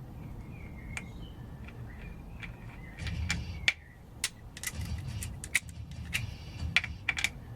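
Hand tools clicking and tapping on the clutch adjuster and its locknut, with a run of sharp, irregular metallic clicks from about three seconds in.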